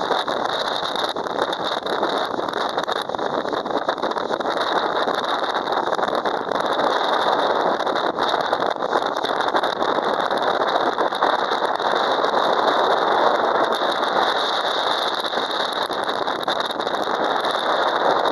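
Typhoon wind and rain making a steady, loud rushing noise that swells and eases slightly.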